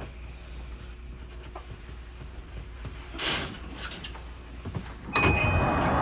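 Low steady rumble of a train, then about five seconds in a sudden jump to loud train noise with a steady high whine.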